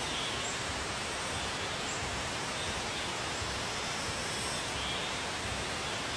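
Steady outdoor background noise with faint, brief high bird chirps scattered through it, about one every second.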